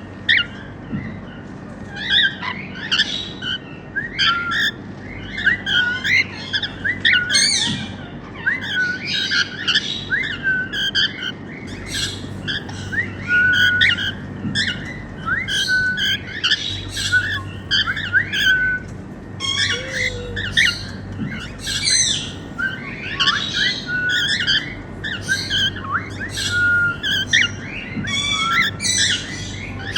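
Normal grey cockatiels chirping, whistling and squawking almost without pause: many short calls that rise and fall in pitch, overlapping one another. A faint steady low hum sits underneath.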